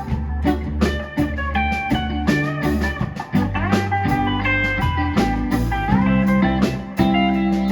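Live blues-rock band playing an instrumental break: a lead guitar line with bent, sliding notes over bass guitar and a drum kit keeping a steady beat.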